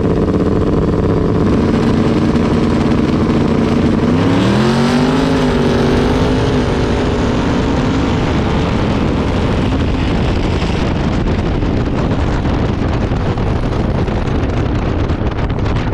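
A race car's engine at full throttle. Its pitch climbs and holds, dips and climbs again at a gear change about four seconds in, then gives way to a loud rush of wind and road noise.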